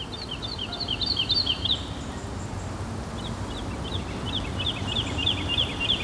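A small bird calling in quick repeated high chirps, about four a second, in two runs with a pause of about a second and a half between them, over a steady low background hiss.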